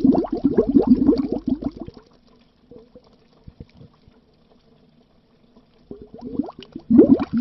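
Bubbles burbling under water: a dense stream of bubbles, then a pause of about four seconds with only a few single pops, before the bubbling starts up again near the end.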